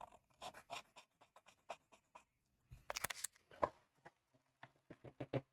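Short, scratchy strokes of a drawing tool being worked over a drawing, in irregular bursts, with a louder cluster of strokes about three seconds in.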